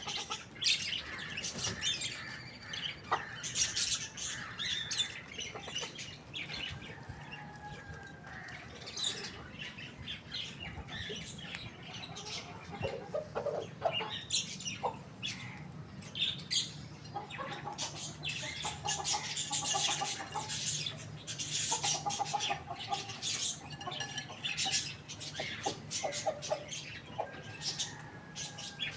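Many short, high bird chirps throughout, mixed with occasional lower clucking calls from chickens as they feed.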